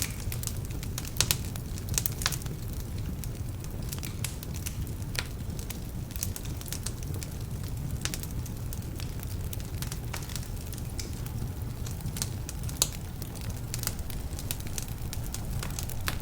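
Wood fire burning in a fireplace: a steady low rumble of flame with irregular crackles and a few sharper pops from damp logs.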